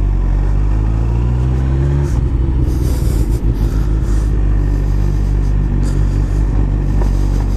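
Motorcycle engine pulling away and revving up, its pitch rising for about two seconds, then a shift and steadier running under way.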